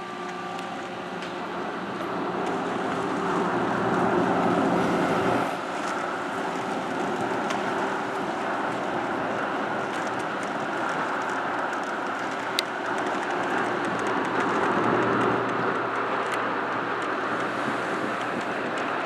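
Steady rumble of a car ferry's engines and machinery, swelling over the first few seconds and then easing, with one sharp click about two-thirds of the way through.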